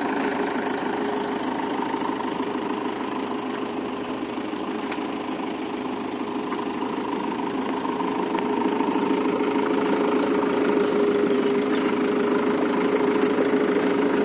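Mahindra Yuvo 415 tractor's diesel engine running steadily, growing louder over the second half.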